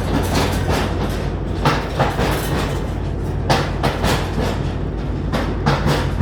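Amtrak San Joaquins passenger train rolling past, its wheels clacking over rail joints in pairs of sharp clicks about every two seconds over a steady low rumble.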